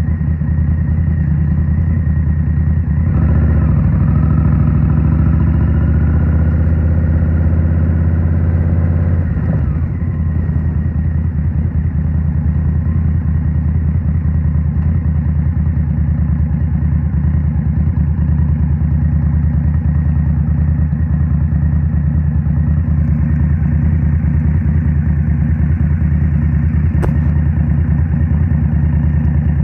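2023 Indian Scout Rogue's 69 cubic-inch V-twin running through Rinehart 3.5-inch slip-on exhausts. About three seconds in it accelerates, pitch rising for several seconds. It drops back about ten seconds in and runs steady.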